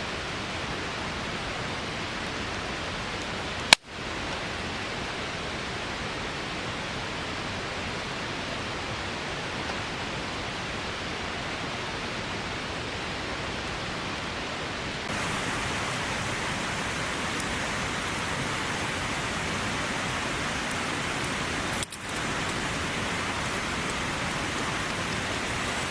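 Heavy downpour, a steady even hiss of rain. It is broken by a sharp click and a brief dropout about four seconds in and a short dip near the end, and it turns slightly louder and brighter about halfway through.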